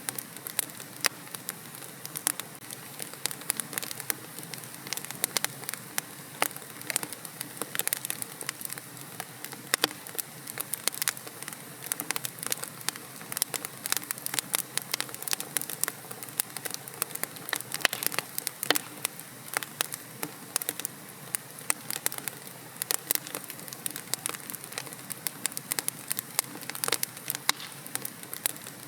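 Wood fire in a fireplace crackling, with frequent sharp, irregular pops and snaps over a soft steady hiss of the flames.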